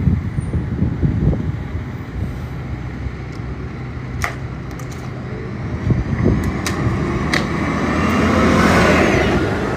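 City bus driving past on the street, its engine and tyre noise swelling to a peak near the end and then easing off, over a steady low hum of traffic.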